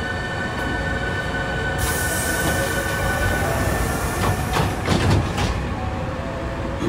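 Hankyu 3300-series resistance-control electric train setting off after its doors close, with a steady high hum throughout. A burst of air hiss comes about two seconds in, then a cluster of clanks and low thuds about four to five seconds in.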